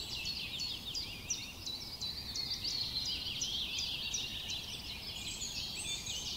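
Small birds chirping outdoors: a busy stream of short, high, repeated calls, livelier in the second half, over a faint steady background noise.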